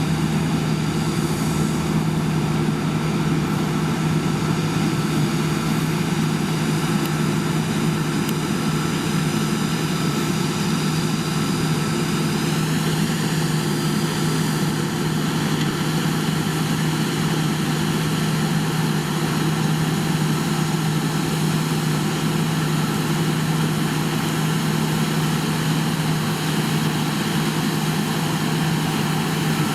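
Heavy farm machinery engine running steadily under load, with a slight rise in pitch about halfway through.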